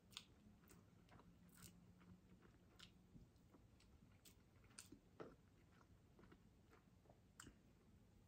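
Faint chewing of fast food, with scattered soft clicks and crunches. Two of these stand out a little, about five seconds in and near the end.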